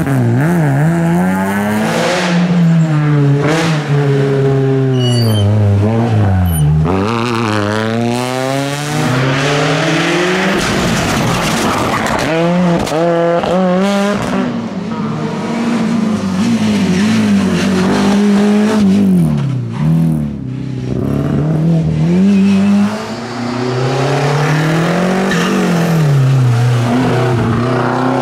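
Rally car engine driven hard on a tarmac stage, its pitch climbing and dropping again and again with upshifts, braking and downshifts. A stretch of rough noise about ten seconds in.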